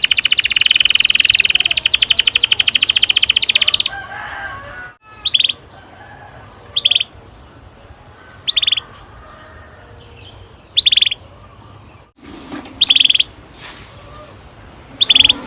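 Domestic canary singing a long, fast rolling trill for about four seconds. It then gives single short, falling chirps every second and a half to two seconds.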